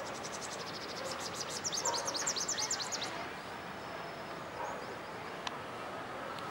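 Green bee-eater giving a rapid, high trill of about ten short notes a second, faint at first and louder over its last second or so, each note sliding downward; it stops about three seconds in. A single sharp click follows later over a steady background hiss.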